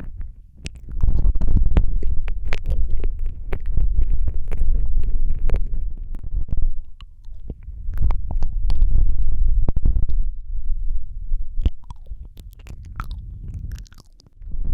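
Close-mic wet mouth sounds: smacking and clicking of lips and tongue over a heavy, muffled low rumble, as in ear-licking and ear-eating ASMR. It comes in waves, thinning to scattered clicks near the end.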